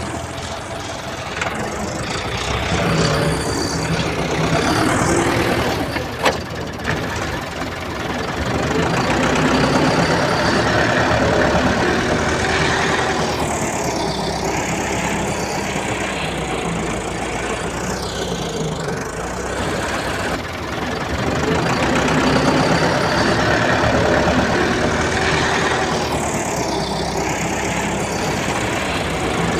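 A JCB backhoe loader's diesel engine running, its revs rising and falling every few seconds as it digs, with one sharp click about six seconds in.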